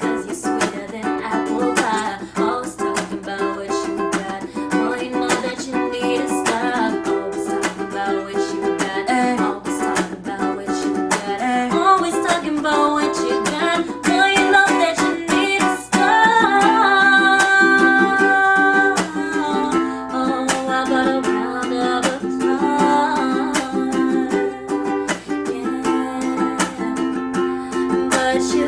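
Ukulele strumming chords in a steady rhythm, an instrumental stretch of a pop song cover.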